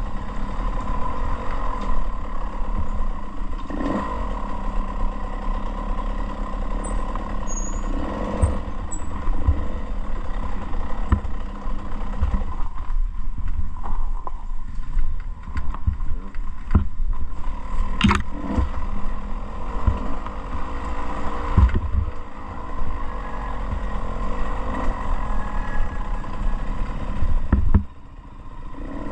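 Dirt bike engine running steadily, with scattered clattering knocks and strong wind rumble on the microphone; the engine sound falls away briefly near the end.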